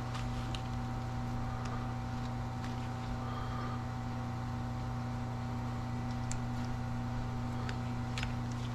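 A steady low hum from a running machine, with a few faint clicks and ticks over it.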